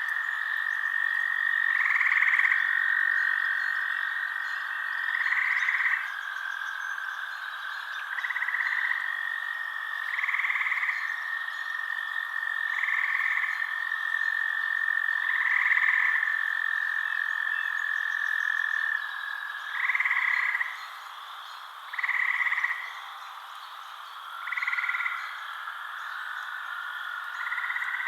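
Frogs calling: short croaks repeat about every two to three seconds over a steady high trill. The trill drops out about two-thirds of the way through, and a lower, wavering one takes over near the end.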